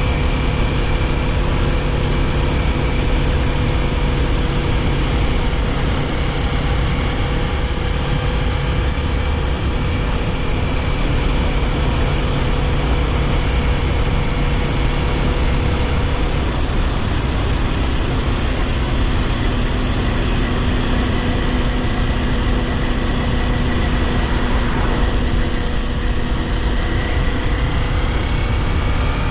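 Kawasaki Ninja 400 parallel-twin engine running at a steady cruising speed, heard from the rider's position over heavy wind and road noise. The engine note holds steady, shifting slightly in pitch about halfway through.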